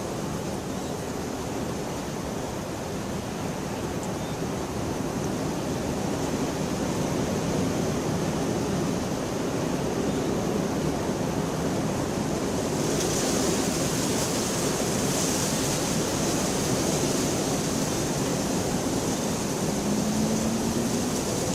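Steady rain falling as an even hiss, growing heavier and brighter a little past halfway through.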